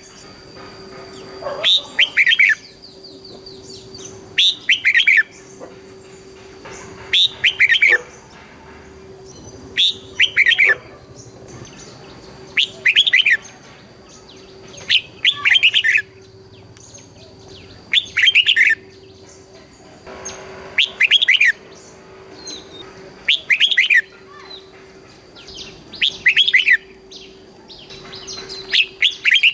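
Red-whiskered bulbul singing its short song phrase over and over, about once every two and a half seconds, each phrase a quick doubled run of falling notes. A steady faint hum runs underneath.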